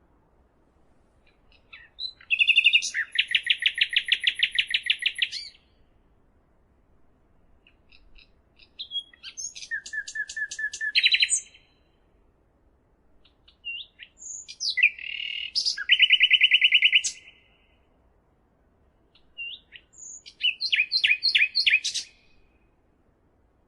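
A songbird singing four separate song phrases, each a few seconds long and made of fast trills of repeated high notes, with pauses of a couple of seconds between phrases.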